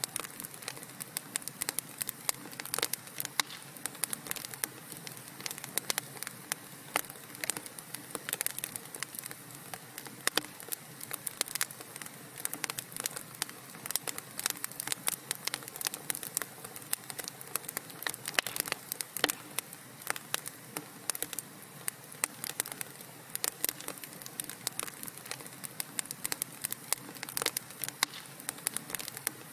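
Wood fire crackling: dense, irregular sharp pops and snaps over a soft steady hiss of burning logs.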